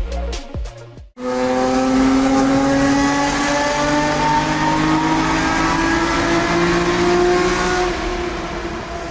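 Nissan Skyline GT-R's S20 DOHC straight-six, with triple Weber carburettors and a straight-pipe exhaust, pulling under acceleration, its pitch climbing steadily for several seconds and easing off near the end. Electronic music with deep bass hits plays for about the first second before it.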